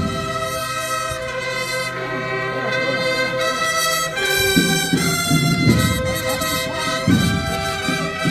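Procession brass band playing slow, sustained chords that change every second or two.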